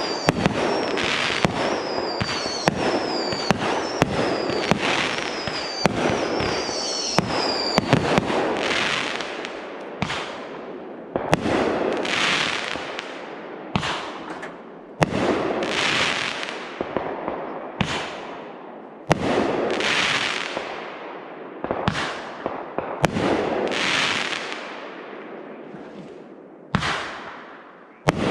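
Aerial fireworks going off: a rapid barrage of bangs with short falling whistles, then from about eight seconds in single loud bursts roughly every two seconds, each trailing off over a second or two.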